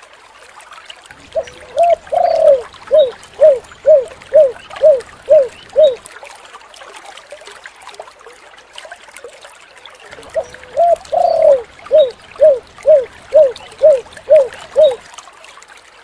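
Spotted dove (tekukur) cooing twice, each phrase a rising two-part opening coo followed by seven short, evenly spaced coos about two a second, the 'kuk 7' call type. A steady hiss like trickling water runs underneath.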